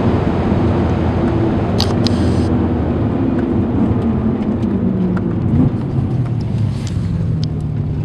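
Supercharged BMW E92 M3's V8 engine heard from inside the cabin, its note drifting gradually lower, then running lower and steadier over the last couple of seconds.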